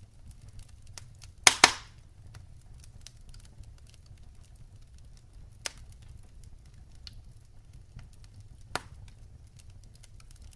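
Firewood burning in a fireplace, crackling with many small ticks over a low steady rumble. A loud double pop comes about one and a half seconds in, and two more single pops come later.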